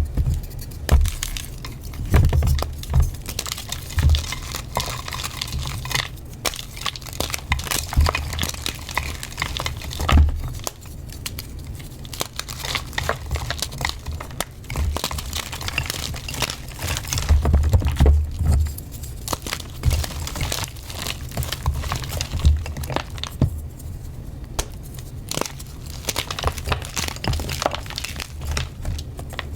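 Pink reformed gym chalk crushed and crumbling, a dense crunchy crackling that runs on and off, with dull thumps every so often.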